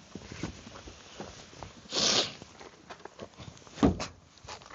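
Handling noise as car audio gear is worked on: scattered clicks and light knocks, a brief rustle about two seconds in, and a sharp knock near four seconds.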